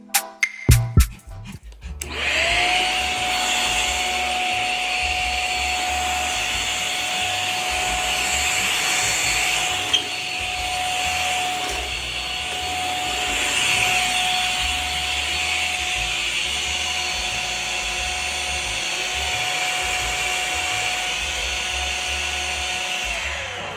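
Cordless stick vacuum switched on about two seconds in: its motor whine rises and settles to a steady pitch over a loud rushing of air. It runs steadily, then is switched off near the end, the whine falling away.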